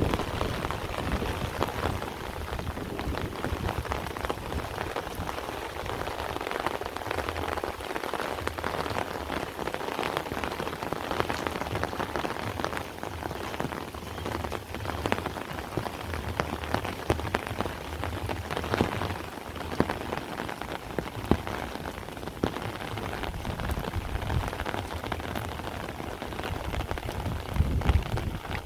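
Heavy rain falling steadily, a dense hiss full of individual drop impacts, with a low rumble that comes and goes and grows stronger near the end.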